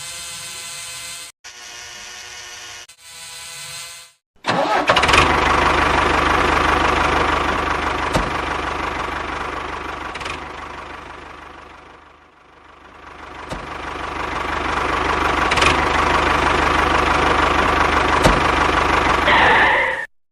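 Engine-like mechanical running noise, loud and steady, dipping to a low about halfway through and building back up before it cuts off suddenly near the end. Before it, a few seconds of short, chopped tonal sounds.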